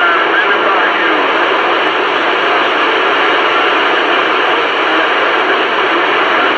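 CB radio receiver hissing with static after a station unkeys, with faint, garbled voices of distant stations buried in the noise.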